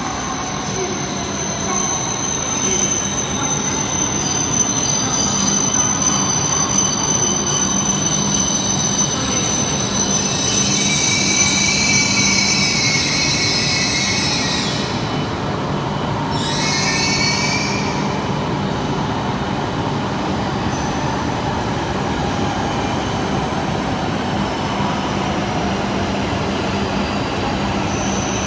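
Shinkansen trains moving through an underground station, over a steady electric hum. About a third of the way in, wheels squeal high on the rails in two spells as an E7-series train passes on the far track, the second squeal falling in pitch. Near the end an E5-series train draws in alongside.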